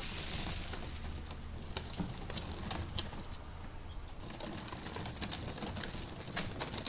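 Quiet outdoor ambience with birds calling, over a faint low steady hum, with scattered light clicks.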